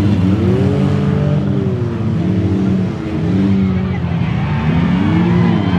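Engines of several demolition derby cars revving up and down as they drive around the dirt arena, the pitch climbing sharply about half a second in and again near the end.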